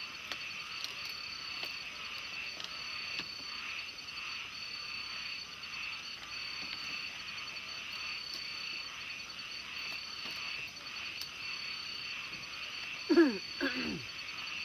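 Night chorus of small frogs calling from a pond, a steady dense trilling with a repeating high pulsed trill over it. Near the end come two short, loud calls that drop steeply in pitch.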